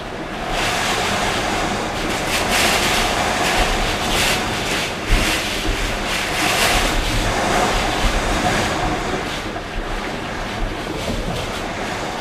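Typhoon-force wind blowing in gusts: a loud, continuous roar that swells and eases every few seconds, buffeting the microphone.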